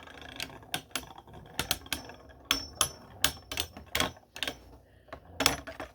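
3D printed Beyblade spinning tops clashing in a stadium: a run of irregular sharp plastic clacks as they hit each other again and again.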